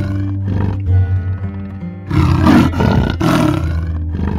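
Leopard roaring twice, about a second apart, in the second half, over background music with a steady bass line.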